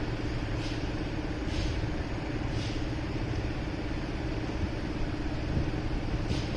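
Motorcycle engine running at a steady, even pitch amid city street traffic.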